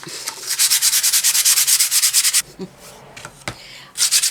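Sandpaper rubbed quickly back and forth over a painted wooden cutout, about ten scratchy strokes a second for two seconds, then a pause with a single click, then another short run of strokes near the end.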